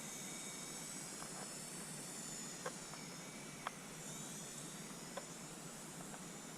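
Syma S107H-E mini RC helicopter's small electric motors whining faintly at a high pitch that wavers up and down with the throttle, over a steady hiss, with a few faint clicks.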